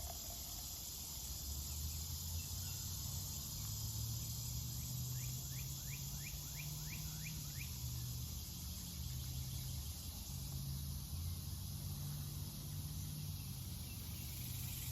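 Steady outdoor chorus of crickets and other insects, a continuous high hiss over a low steady hum. About five seconds in, a bird gives a quick run of about eight short rising notes.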